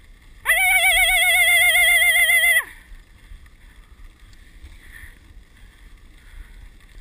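A loud, high warbling call or whistle with a regularly wavering pitch, starting about half a second in and lasting about two seconds. After it there is only a low, quiet rushing.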